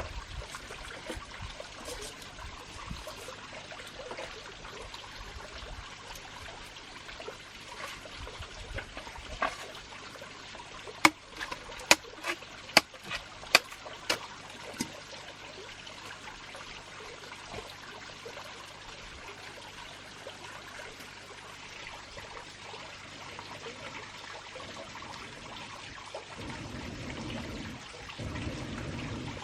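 Steady trickle of running water, with a quick run of sharp clicks or taps between about 11 and 15 seconds in.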